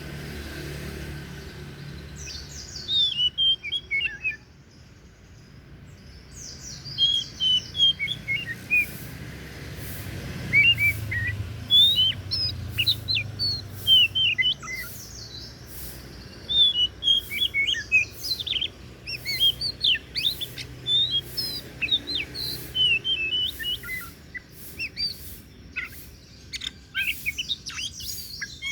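Oriental magpie-robin (kacer) singing: rapid, varied high chirps and whistled notes in quick phrases, with a short pause a few seconds in before a longer, near-continuous run of song.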